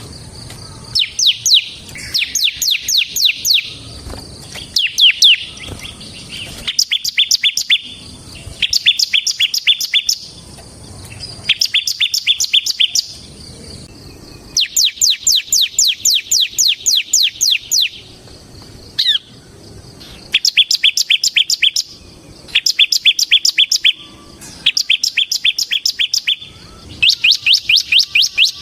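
Bar-winged prinia (ciblek semi) singing in rapid trilling bursts ('ngebren'): repeated bouts of quick, high, downward-slurred notes, each bout one to three seconds long, separated by short pauses.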